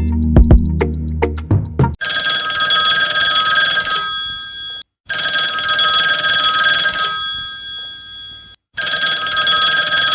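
Telephone ringing: a steady, high ring of several held tones in long bursts with short breaks between them, following about two seconds of chiming music.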